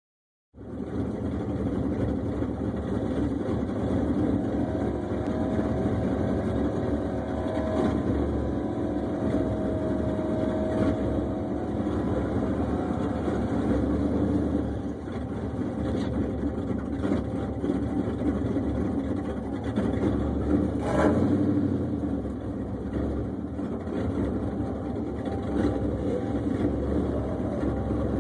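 Drag car's engine idling steadily, with a brief louder burst about 21 seconds in.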